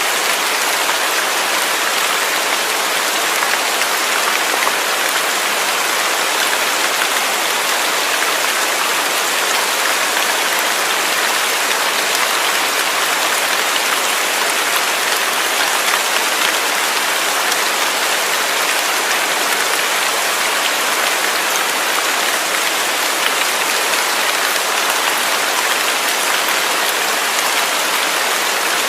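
Steady rain falling, a constant even hiss of drops hitting surfaces that neither builds nor eases.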